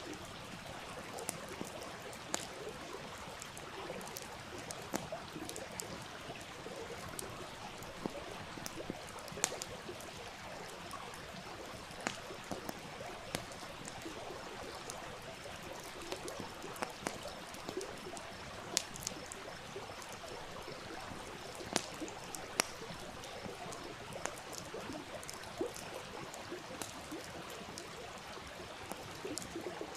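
Wood campfire crackling with irregular sharp pops over the steady sound of a flowing stream.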